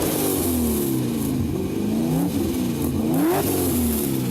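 Supercharged LS2 V8 in a Nissan S14 revved repeatedly while cold, the revs rising sharply and falling back again and again as it is run up to its cold-start rev limiter.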